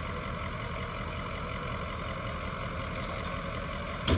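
A vehicle engine idling steadily with a low, even hum, and a brief knock near the end.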